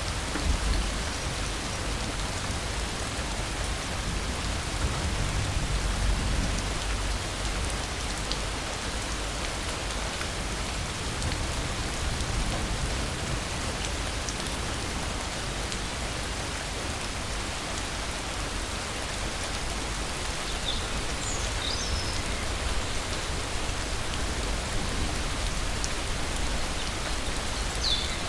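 Steady rain falling, with a low rumble of distant thunder dying away in the first few seconds. A few short high chirps come through near the end.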